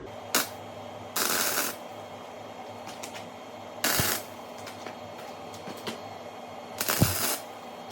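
A welder tack-welding a grade 8 bolt onto steel: four short bursts of arc noise, a brief one just after the start, then three of about half a second each, a few seconds apart.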